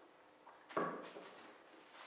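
A kitten at play: a sudden short rustle-and-knock about three-quarters of a second in, fading within about half a second.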